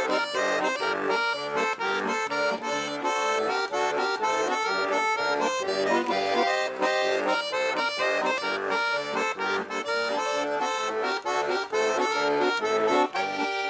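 Accordion playing the instrumental introduction to a song, a quick run of melody over steady rhythmic chords.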